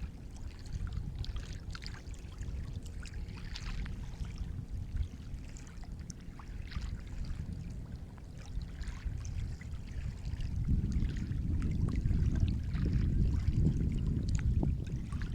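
Sea waves washing in, a low rumble of surf with light splashing and fizzing on top, swelling louder about two-thirds of the way through.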